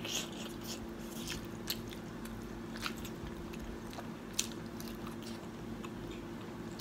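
Close-up mouth sounds of people chewing and biting into sauce-glazed chicken drumsticks: irregular short, sharp wet clicks, over a faint steady hum.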